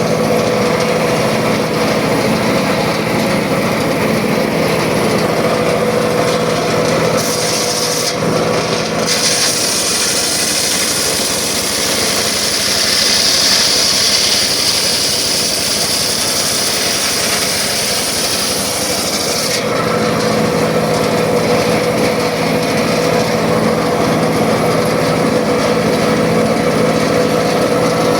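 Circular saw running and cutting wood, a steady machine hum under the hiss of the blade in the timber. About a third of the way in the hiss turns brighter and harsher for some ten seconds, then settles back to the earlier sound.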